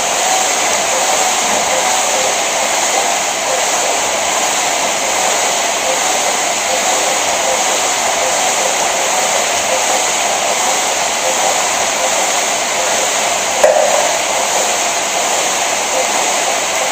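KayakPro dragon boat paddle ergometer whirring steadily as its fan flywheel is driven by paddle strokes, with a faint regular pulse. A single sharp knock comes near the end.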